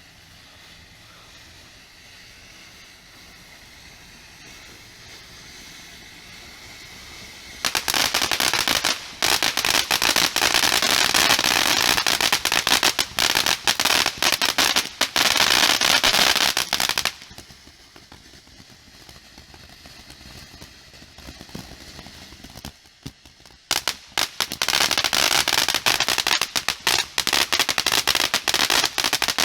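Grand-finale consumer fireworks going off in a rapid, dense barrage of crackling pops. It starts suddenly after a quiet stretch and runs for about nine seconds, thins out for several seconds, then breaks out again near the end.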